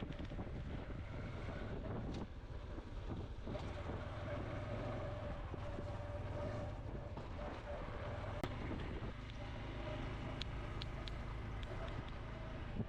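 Honda CT125's single-cylinder four-stroke engine running steadily while riding, with wind buffeting the microphone.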